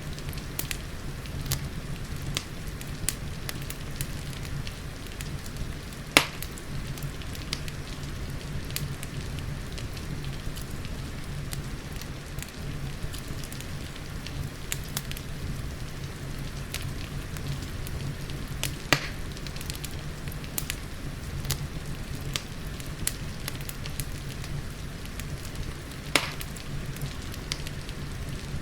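Fireplace crackling: a steady stream of small pops, with three louder snaps spaced well apart, over a steady low rumble and the hiss of rain.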